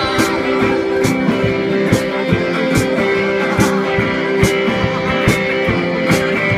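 Band playing live through an instrumental passage: guitar over a steady drum beat, with a sharp hit a little under once a second.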